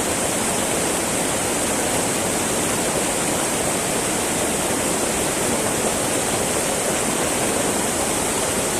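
Small mountain river babbling over rocks, a steady even rush of water.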